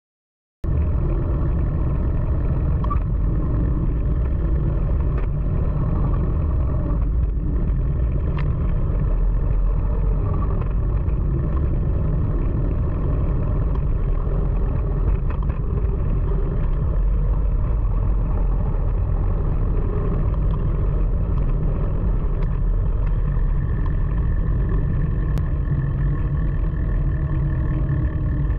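Wind buffeting the microphone of a phone carried on a moving bicycle: a steady, loud low rumble that cuts in suddenly under a second in.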